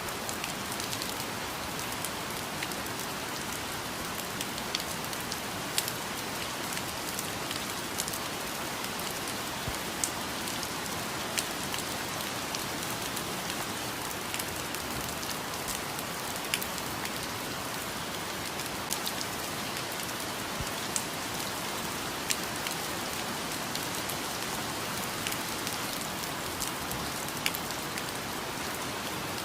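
Steady rainfall, a dense even patter with scattered louder single drop hits throughout.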